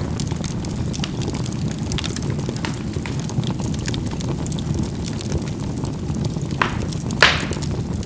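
Charcoal burning in a fireplace: a steady low rush of flame with many small crackles. Two sharper pops of the charcoal bursting come about six and a half and seven seconds in, the second the loudest.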